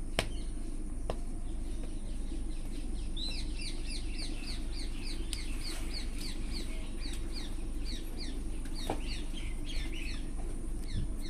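A bird calling in a rapid series of short, falling chirps, about three or four a second, starting a few seconds in and dying away near the end, over a steady low hum.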